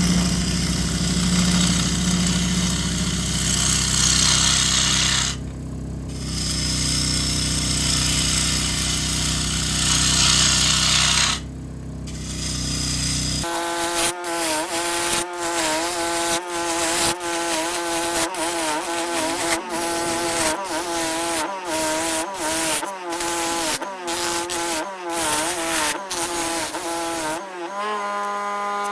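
A power tool runs steadily on a walnut bowl blank, with two brief pauses. About halfway through it stops and a melodic tune with a steady pulse takes over.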